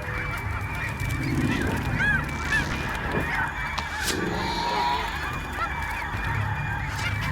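A dense chorus of many overlapping honking and squawking animal calls, like a crowded breeding colony, going on steadily without a break.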